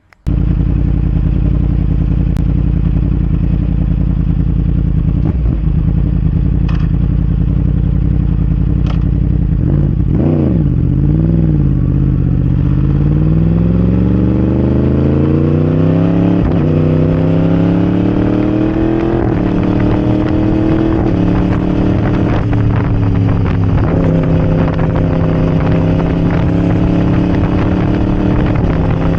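Yamaha R1 crossplane inline-four with a decatted Arrow Racing exhaust, on the move and loud. It runs steadily, dips and blips about ten seconds in, then climbs in pitch under acceleration, dropping back sharply a few times before settling to a steady cruise.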